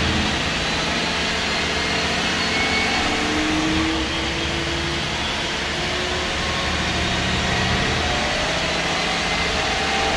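MAN SD202 double-decker bus's MAN D2566 MUH diesel engine running, with thin whines rising in pitch around the middle and again near the end.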